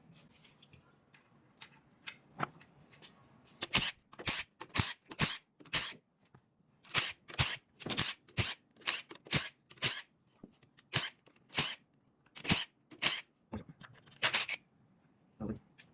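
A series of sharp mechanical clacks, about two a second, in two runs with a short pause about six seconds in.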